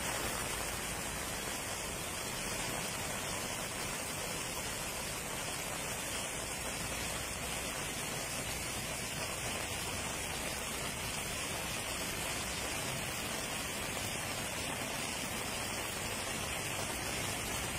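Heavy rain falling onto a flooded road, a steady even hiss with no breaks.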